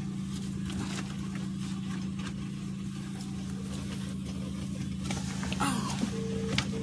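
A car's engine idling steadily, with short knocks and rustling as someone climbs into the seat.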